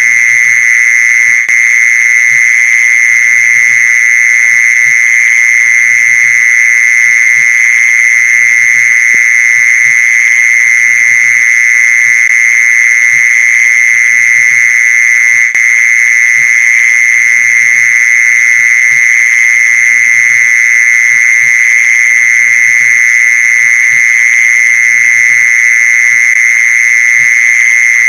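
Mole cricket song: a loud, continuous, steady buzzing trill, used as a lure call for mole crickets.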